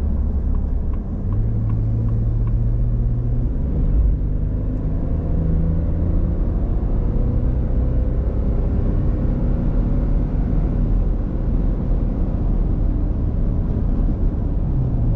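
Car driving: steady low road rumble with an engine hum that steps up in pitch about a second in and shifts again a few seconds later.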